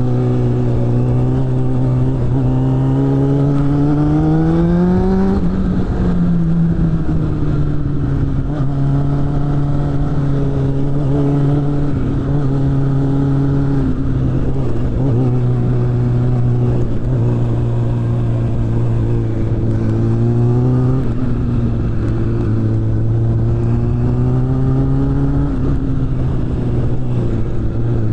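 Suzuki GSF600 Bandit's inline-four engine running through a BOS aftermarket exhaust while being ridden. The revs climb for about five seconds, drop, hold steady, then rise again around twenty seconds in before levelling off.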